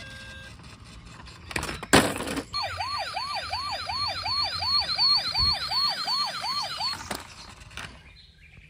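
A short, loud burst of noise, then an electronic toy police-car siren wailing in quick repeated falling sweeps, about three a second, with a high warble over it; it stops suddenly about seven seconds in.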